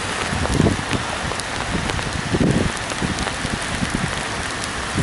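Heavy rain falling steadily, with wind buffeting the microphone in two gusts, one about half a second in and one about two and a half seconds in.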